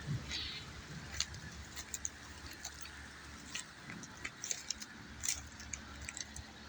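Rain falling: a steady soft hiss with scattered, irregular close drop ticks.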